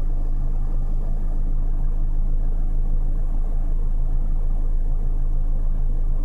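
Car engine idling with the dashboard air-conditioning vents blowing, heard from inside the cabin: a steady low hum and rush.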